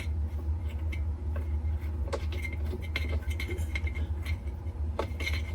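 Scattered light clicks and taps of hands working the impeller nut and metal parts at the centre of a washing machine tub, over a steady low hum.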